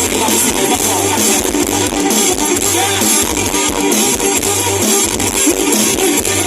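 Kantrum dance music played live by an amplified band: guitar lines over bass and drums, loud and steady.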